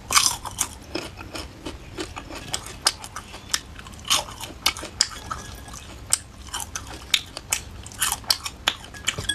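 Crispy fried grasshoppers being chewed: a steady run of sharp, irregular crunches and crackles.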